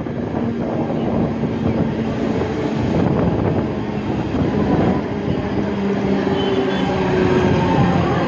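Mumbai suburban local train (electric multiple unit) running along the track, heard from its open doorway: a steady rumble of wheels on rails, with a faint whine that drifts slowly in pitch in the second half.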